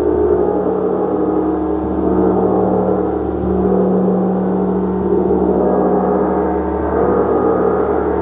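Gong played continuously, a loud sustained wash of many overlapping tones that swell and fade slowly, with no single sharp strike standing out.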